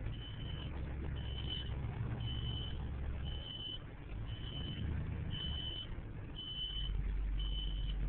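Truck's reversing alarm beeping about once a second, a single high tone, over the low rumble of its engine running as it backs up.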